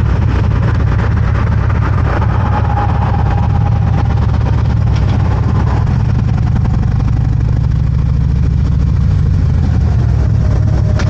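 Harley-Davidson motorcycle's V-twin engine running at low speed, a steady low rumble heard from the rider's seat.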